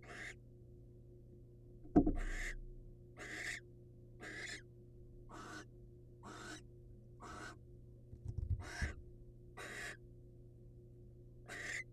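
Barn owl giving a rasping, hissing call, repeated about once a second, typical of the female's food-begging call. A sharp knock about two seconds in and a few low bumps near the eighth second come from movement in the nest box.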